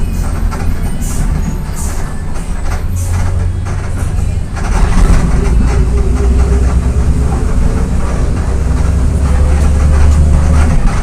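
Diesel engine of a VolksBus 17.230 EOD bus running under load, with rattles from the body. About four and a half seconds in, the engine note drops lower and gets louder, then climbs slowly; it falls away again near the end.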